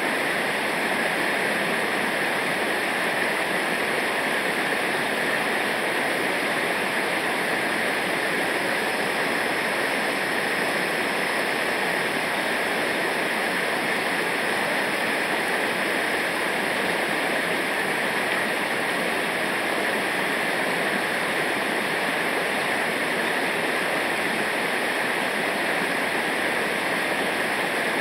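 Rushing river water, a steady, unbroken rush of fast-flowing rapids or a waterfall.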